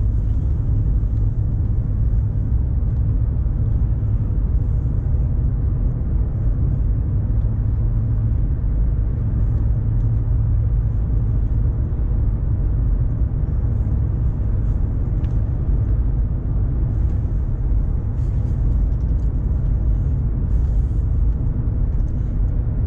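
Steady low rumble of a 1990 Mercedes-Benz 420 SEL being driven: its 4.2-litre V8 running at an even pace, mixed with tyre and road noise.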